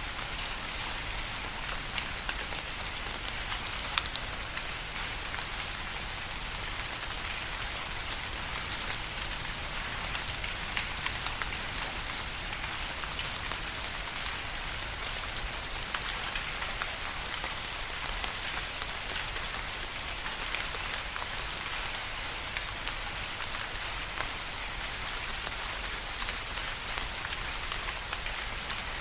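Steady rain falling on a surface, a dense patter of many individual drops ticking sharply over an even hiss.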